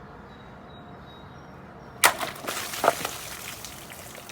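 A big Damascus knife blade chopping through a full plastic water bottle: a sharp whack about two seconds in, water splashing out, and a second knock just under a second later.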